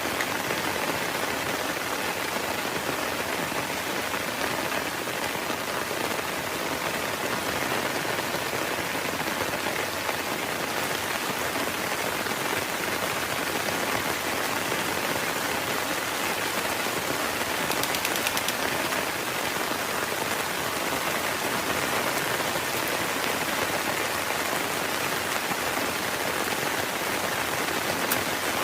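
Heavy rain falling steadily, with a few sharper drop hits around the middle and near the end.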